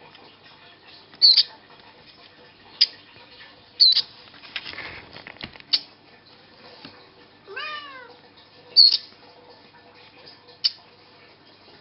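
Baby bird giving short, sharp high chirps, about six spread out at irregular intervals, with a cat meowing once about two-thirds of the way through. Soft rustling can be heard in the middle.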